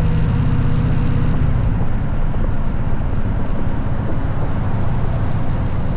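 Motorcycle engine running: a steady engine note for about the first second and a half, then a rougher, uneven low rumble.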